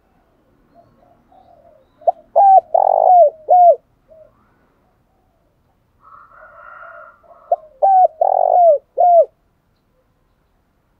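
Spotted dove cooing: two loud phrases about five seconds apart, each made of short falling notes around a longer held middle note, with softer cooing just before the second phrase.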